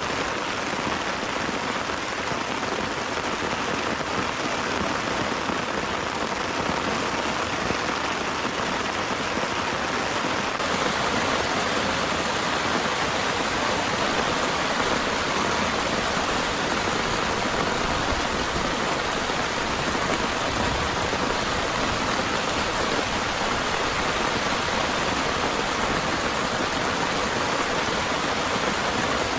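Heavy rain falling steadily, a dense even hiss that gets a little louder about ten seconds in.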